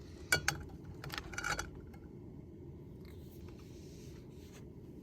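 Cooking gear being handled: a few sharp clicks and scrapes in the first second and a half, over a steady low rumble.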